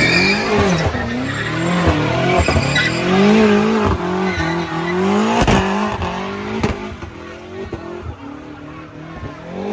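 Car engine revving up and down repeatedly, with tyres squealing under wheelspin. A few sharp cracks come in the middle, and the engine eases off near the end.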